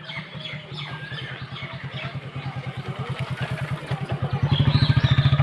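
Diesel engine of heavy earthmoving machinery running with a steady rapid chug, growing louder and stepping up about four and a half seconds in.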